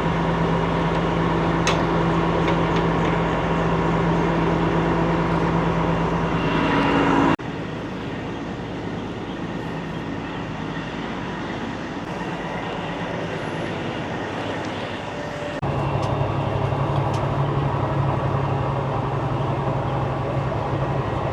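Steady engine hum at a diesel fuel island while the truck and reefer are being fueled. It cuts off abruptly about 7 seconds in to a quieter, even hiss, and the steady hum comes back just as abruptly about 16 seconds in.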